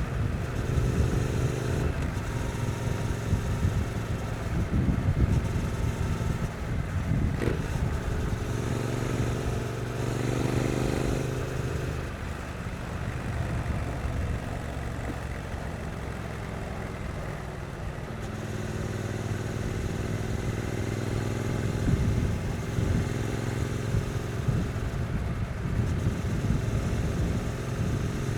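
2022 Triumph Street Twin's stock 900 cc parallel-twin engine running under way at city speeds, its note changing with the throttle. Through the middle it settles to a lower, quieter note, then pulls steadily again.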